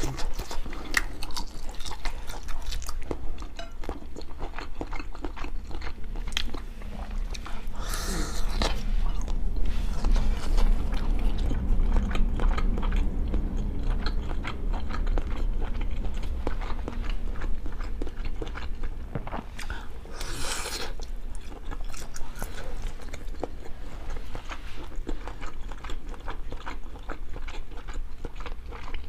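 Close-up eating sounds: biting and chewing with wet mouth clicks and crunches, going on continuously, with two brief louder hissing stretches about 8 and 20 seconds in.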